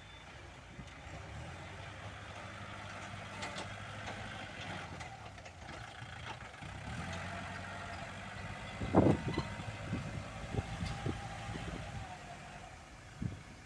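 Kubota L47-series tractor's diesel engine running steadily while pushing earth, with a loud clank about nine seconds in followed by several smaller knocks.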